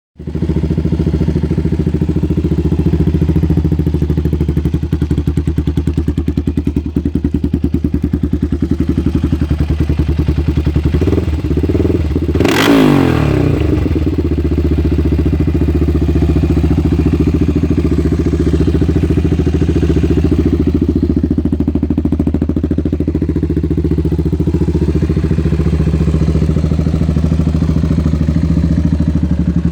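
Honda ATC 350X's single-cylinder four-stroke engine idling steadily through a SuperTrapp exhaust with a TC Racing end cap. It is blipped once about twelve seconds in, the pitch rising and falling back. The exhaust is loud.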